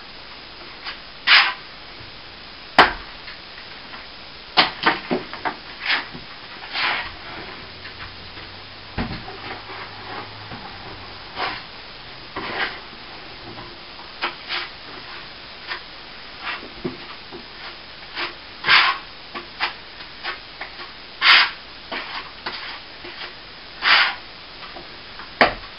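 Scraping at cracked plaster with a hand tool: irregular short scrapes with occasional sharp clicks and knocks.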